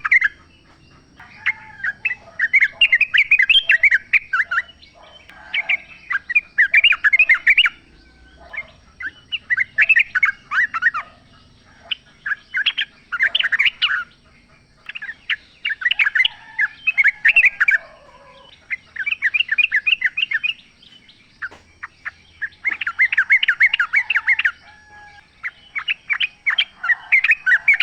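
Yellow-vented bulbul singing in the wild: about nine bursts of rapid chattering notes, each around two seconds long and a second or so apart, with softer lower calls in the gaps.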